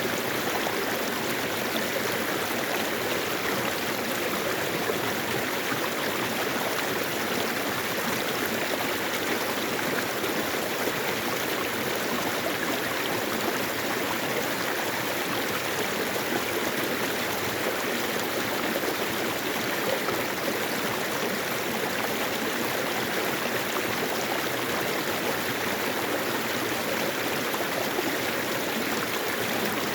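Mountain stream (valley creek) water flowing and splashing over rocks, a steady rushing sound that does not change.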